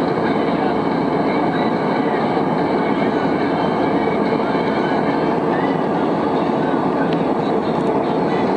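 Steady cabin noise inside an airplane: an even, unbroken rushing noise that holds the same level throughout.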